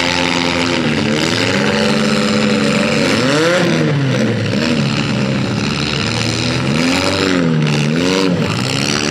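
Several demolition derby cars' V8 engines revving hard at the same time, their pitches repeatedly rising and falling as the drivers accelerate and back off.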